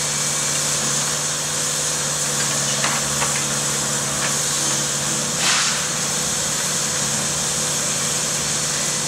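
Diesel engine of track-maintenance machinery running steadily with a constant hum and hiss, a couple of faint clicks about three seconds in and a short burst of hiss past the middle.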